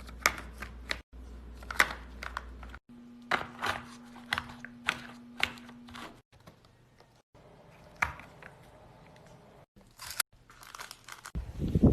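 A run of short, crisp crunches and crackles, as of something being cut, pressed or crumbled, in several short stretches that cut off abruptly; a steady low hum sits under the middle stretch.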